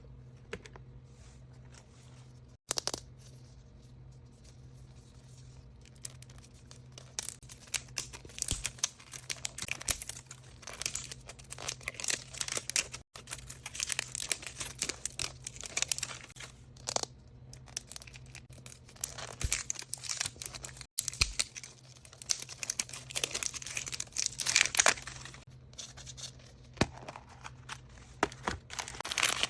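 Wrapping paper on a surprise toy being torn open and crinkled by hand. It starts quietly with a single click, then from several seconds in becomes a dense run of crackly tearing and rustling that continues to the end.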